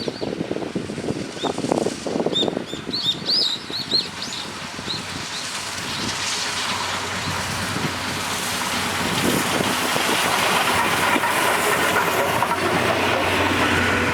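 Small birds chirping in short high calls, with a few low thumps, during the first few seconds. From about six seconds in, the rushing noise of an approaching steam-hauled train grows steadily louder.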